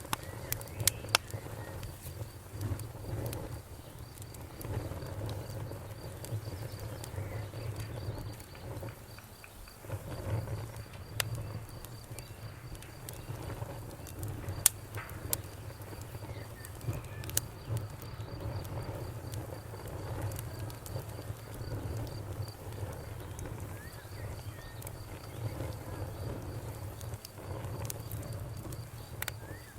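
Campfire burning: a steady low rumble of the fire with scattered sharp crackles and pops, a couple of louder pops about a second in and about halfway through. A faint, fast, even high-pitched pulsing runs underneath.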